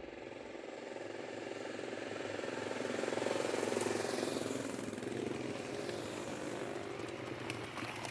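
Motorcycle engine running steadily, growing louder toward the middle and then easing off a little.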